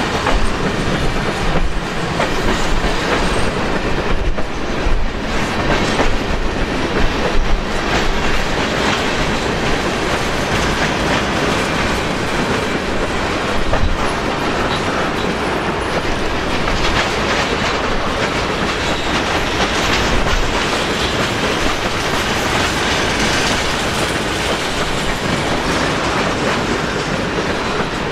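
Long freight train of covered hopper cars rolling slowly past, steel wheels clicking over the rail joints. Wind buffets the microphone.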